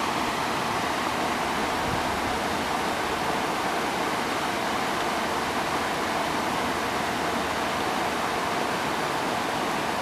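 Heavy rain falling steadily on trees, a dense, even hiss.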